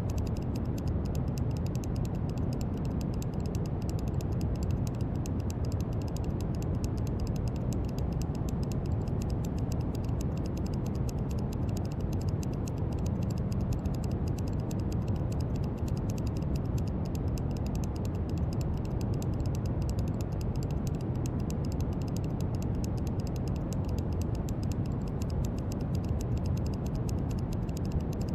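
Brown noise: a steady, deep hiss, heaviest in the low end and thinning toward the top, with no change in level.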